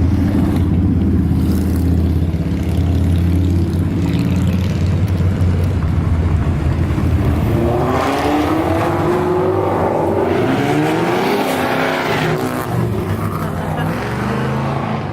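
Car engine running with a steady low drone, then revving, its pitch rising and falling about halfway through before it settles back.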